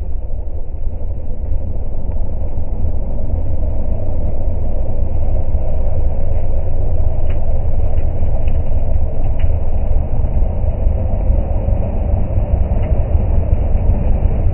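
A large vehicle engine running steadily with a deep rumble, building slightly over the first few seconds.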